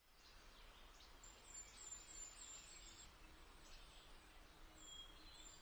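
Very faint outdoor ambience with a small bird chirping: a quick run of short, high chirps starting about a second in, and two more near the end.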